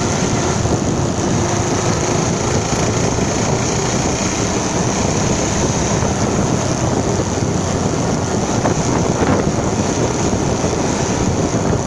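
Wind rushing over the microphone of a moving motorcycle, steady, with the engine and road noise underneath.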